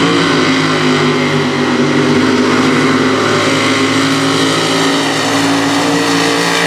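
Mega mud truck engine held at high revs, running loud and steady at a constant pitch while the truck pulls in a tire tow.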